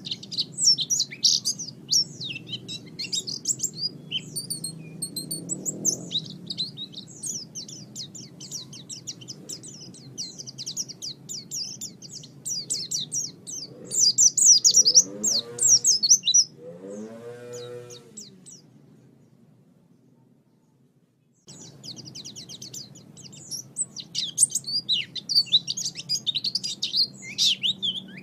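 Songbirds chirping and twittering in fast, high-pitched runs, a recording of the kind played to lure wild birds and to teach caged birds their songs. Lower, drawn-out calls join briefly around the middle; the sound then fades out and the chirping starts again abruptly.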